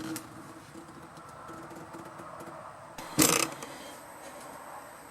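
Faint steady background hiss with a low hum, broken about three seconds in by one short, loud knock.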